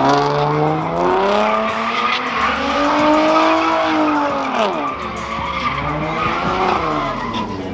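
Car engine revving hard with tyres squealing as the car slides. The engine pitch climbs through the first few seconds, drops about four and a half seconds in, then rises again.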